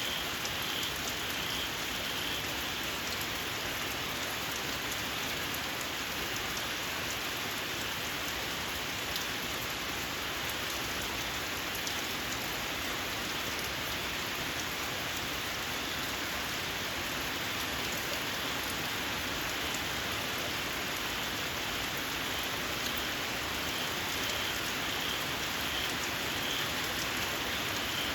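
Steady rain falling. A small frog gives a shrill run of quick, evenly spaced chirps at the start and again near the end.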